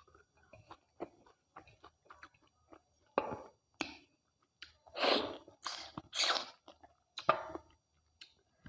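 Close-miked chewing of mutton curry and rice: a run of small wet mouth clicks, then several louder, noisy mouth sounds from about three seconds in, the loudest pair around five to six seconds.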